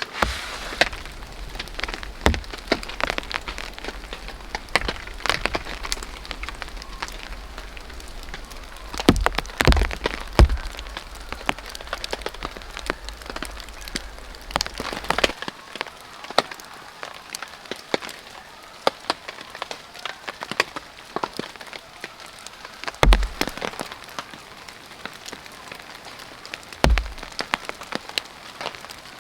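Rain falling steadily on a tarp, with many sharp drop ticks scattered through it. A few heavier thuds stand out, two close together about ten seconds in and two more late on.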